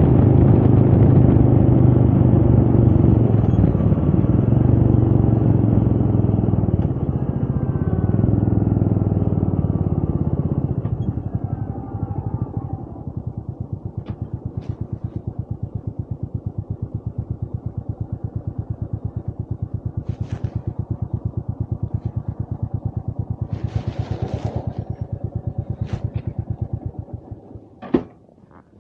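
Royal Enfield Meteor 350's single-cylinder engine running under way, then dropping about twelve seconds in to a steady, evenly pulsing idle. Near the end the engine is switched off, followed by a sharp knock.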